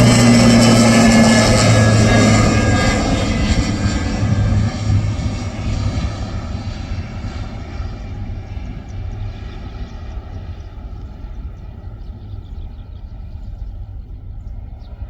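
Airplane engines passing close by, loud at first and then fading steadily as the aircraft moves away, the high-pitched part of the noise dying off first.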